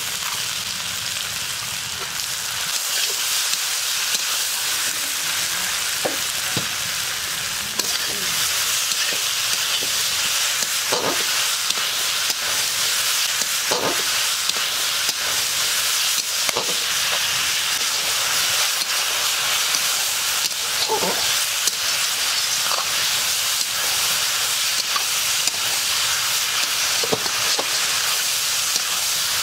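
Potato sticks sizzling steadily in hot oil in a wok while a flat metal spatula stirs them, with a few faint scrapes of the spatula on the pan now and then.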